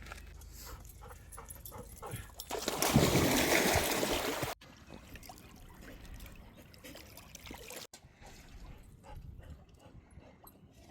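A dog splashing in water, with a loud burst of splashing for about two seconds that cuts off suddenly, then quieter water sounds.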